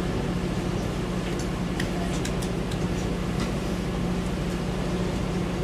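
Steady low drone of a river boat's engine running, with a constant hum and a few faint ticks in the middle.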